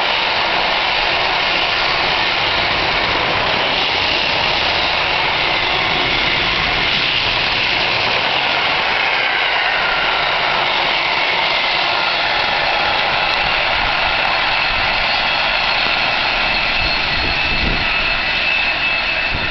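Container wagons of a long freight train rolling past on the main line: a steady rushing clatter of steel wheels on rail, with a faint high ringing tone in the later part.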